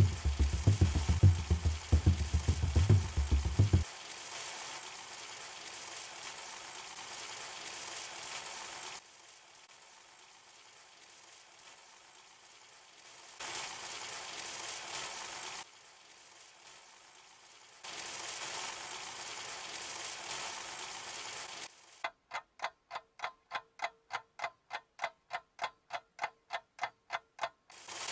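Chicken karahi frying in a nonstick wok, with knocks and rumble from a wooden spoon stirring it in the first few seconds, then a steady sizzle that comes and goes. Near the end a clock-like ticking runs at about four ticks a second.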